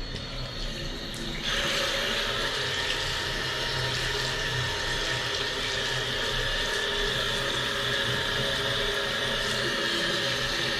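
Steady rush of running water that starts abruptly about a second and a half in.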